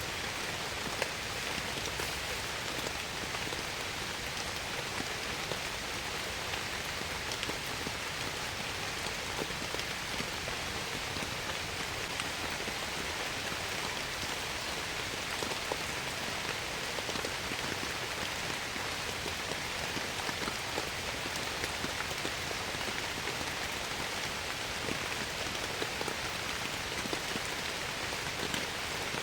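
Steady heavy rain falling in a forest, with many small drop ticks.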